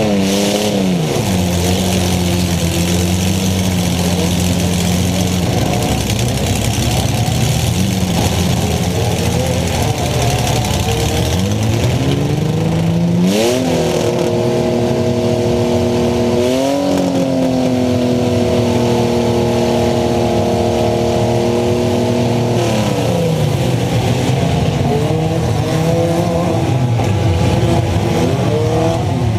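Demolition derby car's engine with open exhaust stacks, heard from inside the stripped car: running low, then revved up twice around halfway and held high for several seconds before dropping back. A short bang just before the first rev.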